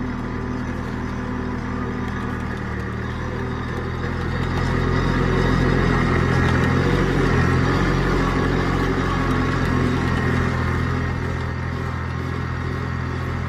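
A vehicle engine running steadily. It rises in level and pitch about four to five seconds in, holds there, and eases back to its earlier pace around ten seconds in.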